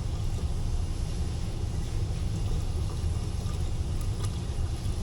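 Hot water poured into an air conditioner's condensate drain line to flush it, over the steady low rumble of the system running.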